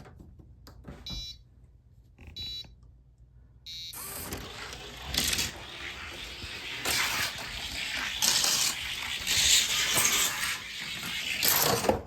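Three short electronic beeps about a second apart. Then a die-cast Johnny Lightning pickup truck rolls down a plastic orange track, its wheels making a continuous rolling rattle that surges louder several times along the run.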